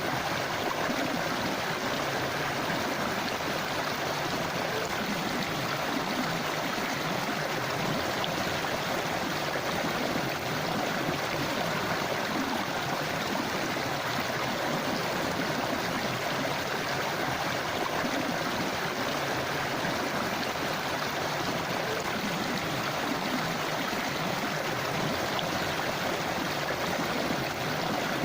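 Forest river or stream flowing over rocks, a steady rushing and babbling of water.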